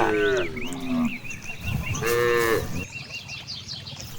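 Cows mooing: a long moo tails off and drops in pitch in the first second, and a second, shorter moo follows about two seconds in.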